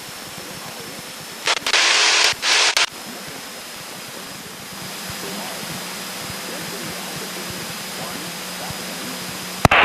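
Steady rushing cabin noise of a Cessna 172K's engine and propeller in cruise, heard through the headset intercom. About a second and a half in, a loud burst of hiss cuts in for about a second and a half, briefly dropping out in the middle.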